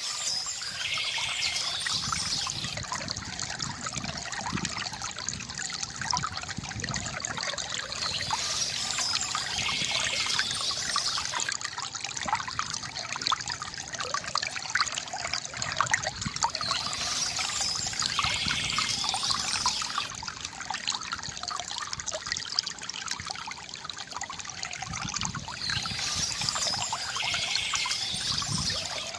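Water trickling and gurgling from a bamboo fountain in a steady flow. A brighter, hissier stretch comes back about every eight and a half seconds.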